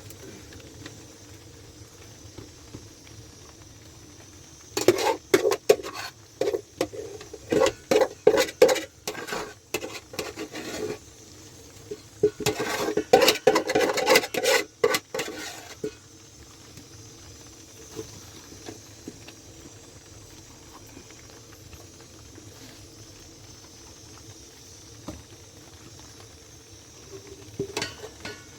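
Hard objects being handled and knocked together in two bouts of rapid clattering, the first about six seconds long and the second about four, with a few scattered ticks afterwards over a steady faint hiss.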